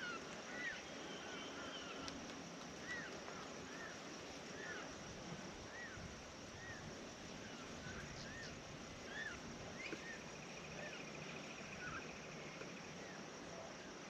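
A bird repeating one short chirp over and over, about one or two a second, faint, with a brief fast trill near the end.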